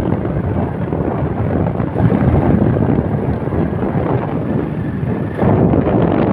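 Wind buffeting the microphone: a loud, steady rushing noise that grows louder about five seconds in.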